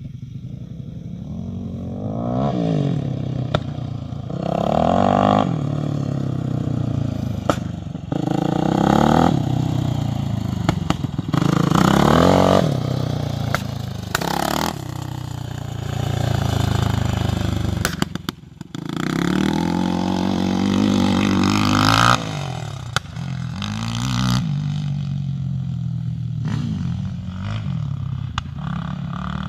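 Yamaha YFZ450R's single-cylinder four-stroke engine through a Two Brothers aftermarket exhaust, revved over and over: the revs rise and fall back every two to three seconds. Sharp pops from the exhaust are scattered through, and the engine drops briefly to a low idle partway through.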